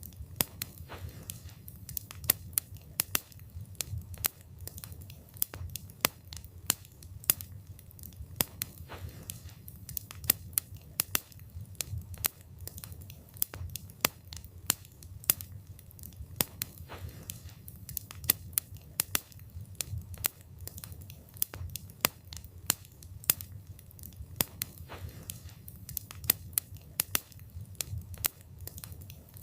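Wood fire burning, with frequent sharp, irregular crackles and pops of the burning wood over a low rumble of the flames.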